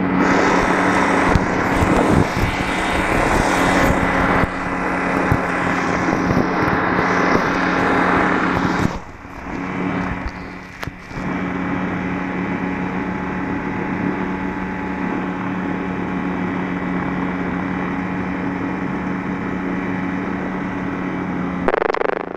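Light aircraft's piston engine and propeller running at a steady speed, with a rushing wind noise over it for the first several seconds. The sound drops away briefly twice, about nine and eleven seconds in.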